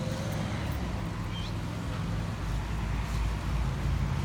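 A steady low engine hum, with one short high chirp about a second and a half in.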